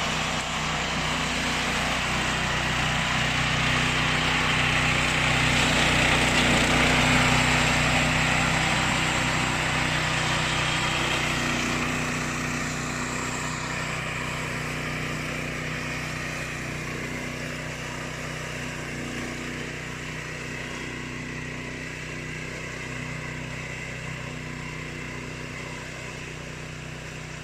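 Remote-control flail lawn mower's engine running steadily while it mows. It grows louder to a peak about a quarter of the way through, then fades gradually as it moves away.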